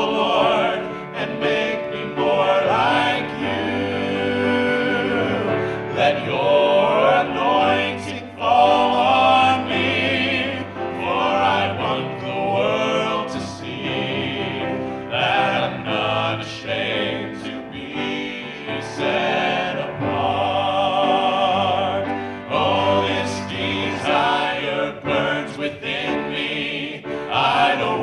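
A vocal group singing a gospel song in harmony, holding long notes with vibrato over steady low accompaniment.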